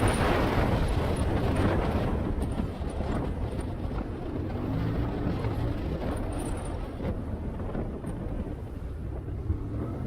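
A motorcycle underway: a steady rush of riding wind with the engine's low drone underneath, easing a little about two seconds in.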